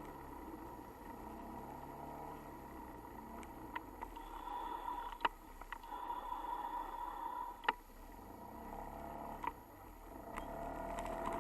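Faint steady hum of a car, picked up by a dashcam, with a few sharp clicks through the middle.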